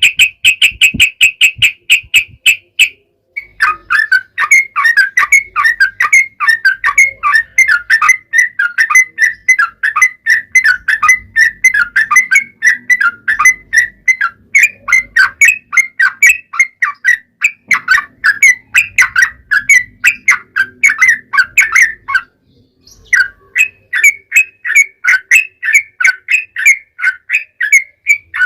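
Sooty-headed bulbul (trucukan) singing a long, rapid run of short chirping notes, several a second, with brief pauses about three seconds in and again about three-quarters of the way through.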